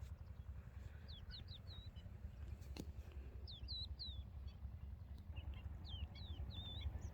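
A small bird calling in three short runs of high, downward-sliding chirps, over a steady low rumble, with one sharp click a little before the middle.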